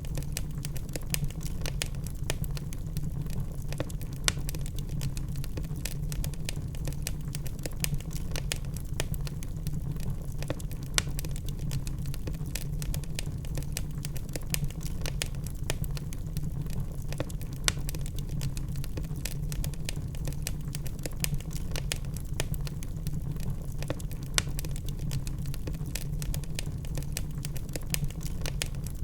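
Wood fire crackling: a dense, irregular run of small pops and snaps from burning logs over a steady low rumble, with a few sharper pops standing out.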